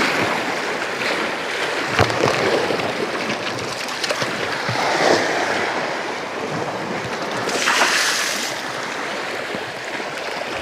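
Sea waves washing and splashing against rocks, swelling up three times.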